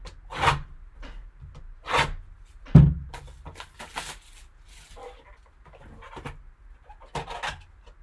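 A sealed trading-card box being opened and its packaging handled: irregular bursts of rustling and scraping, with a soft thump about three seconds in.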